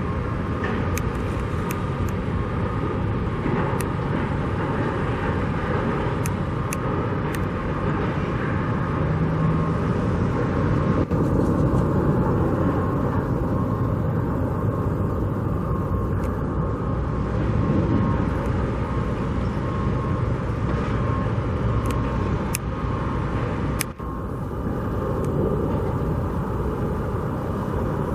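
Steady road traffic noise, with cars passing.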